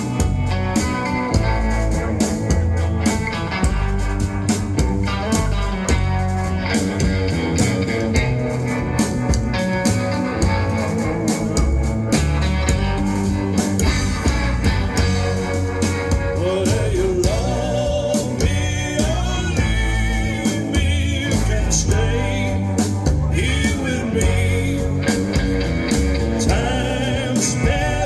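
A live band playing an instrumental passage of a rockabilly song: bass and drums keep a steady beat while a lead line, most likely electric guitar, plays bending, wavering notes in the second half.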